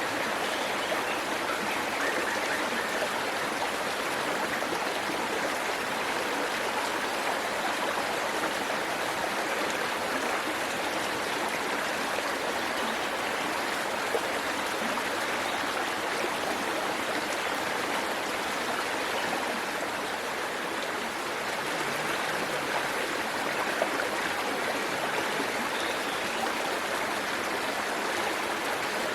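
Waterfall: water falling and rushing over rocks in a steady, unbroken hiss, with a couple of faint ticks of splashing.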